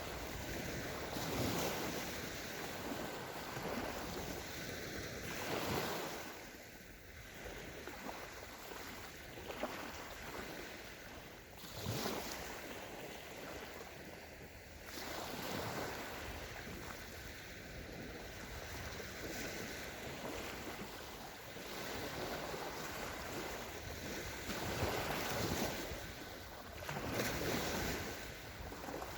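Waves of the Sea of Azov washing onto a sandy beach, the surf swelling and falling back irregularly every few seconds.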